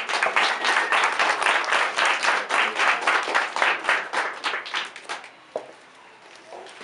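Audience applauding for about five seconds, then dying away, with a single knock shortly after.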